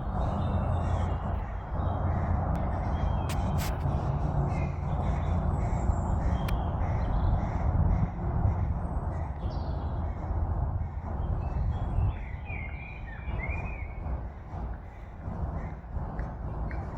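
Bird calls over a steady low rumble, with a few sharp clicks in the first half.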